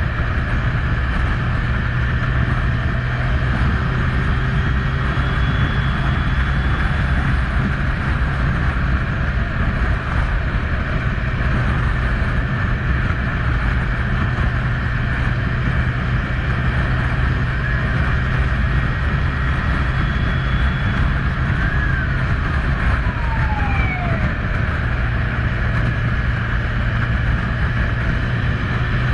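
Kawasaki Z1000 inline-four motorcycle engine running steadily at an even pitch, with a continuous rushing noise over it.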